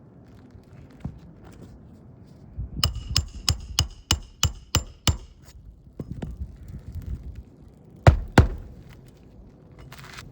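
Hammer striking metal on a shingle roof: a quick run of about nine ringing blows, roughly four a second, a few seconds in, then two heavier blows near the end.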